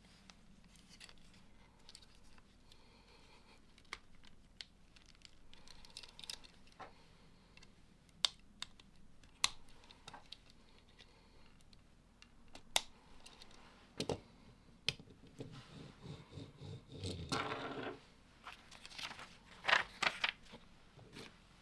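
Lego plastic bricks being handled and pressed together: scattered sharp clicks and snaps, with a short rustle of parts being sifted a little after halfway and a quick run of louder clicks near the end.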